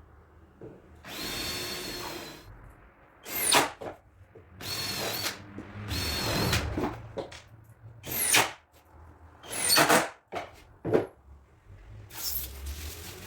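Power drill driving screws into MDF cabinet panels in a series of short bursts, about seven runs of the motor, each about a second long, some rising sharply in pitch as the screw seats.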